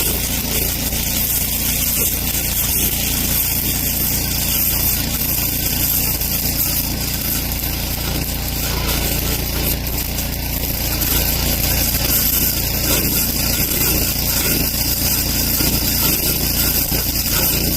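Welding arc burning steadily: a continuous, even hiss with no breaks.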